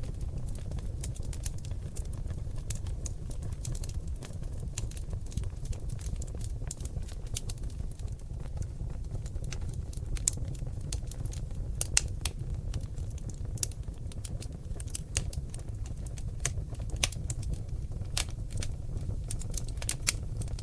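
Seasoned oak logs burning in a fireplace, crackling and popping in an irregular stream of sharp clicks, a few louder pops among them, over a steady low rumble.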